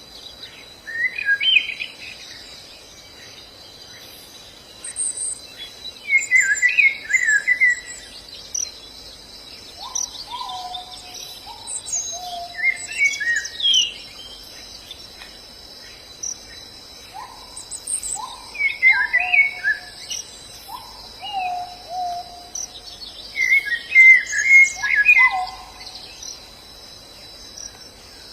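Wild white-eyes (pleci) singing in short bursts of twittering chirps every few seconds, mixed with lower, falling whistled notes from about ten seconds in. A steady high insect drone runs underneath.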